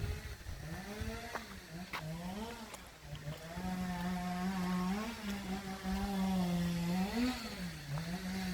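A small engine running, its pitch mostly steady but rising and dipping briefly several times as the revs change.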